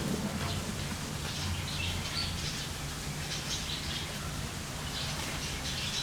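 Small birds chirping now and then, short high notes, over a steady low background hum.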